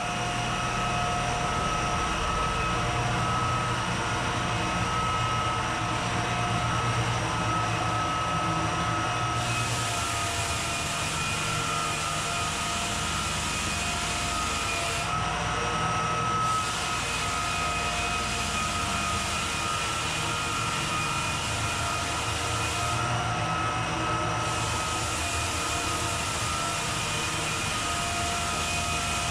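An electric floor-sanding machine runs steadily with a constant motor whine. Its upper hiss drops away briefly three times, about a third of the way in, around the middle and near the end.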